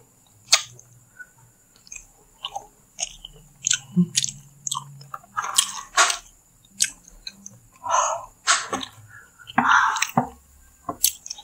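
A mouthful of Madura-style chicken satay being bitten off the skewer and chewed, heard as a run of irregular smacking clicks of the mouth and lips.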